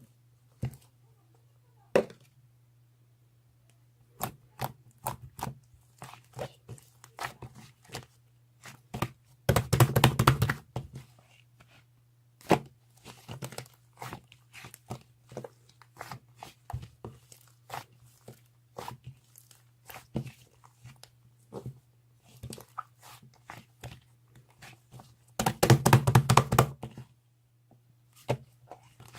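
Hands squishing and poking fluffy clay slime, making a run of small sticky pops and crackles. Two longer, louder spells of rapid crackling come about ten seconds in and again near twenty-six seconds. A steady low hum runs underneath.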